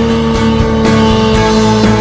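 Custom motorcycle engine held at high revs on a test stand, one steady note sagging slightly in pitch, with rock music and a drum beat playing over it.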